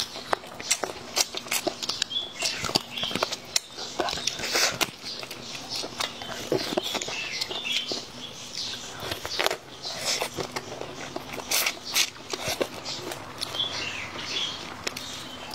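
Close-miked chewing and wet lip-smacking of a person eating chicken pieces by hand, a dense run of irregular clicks and small crackles.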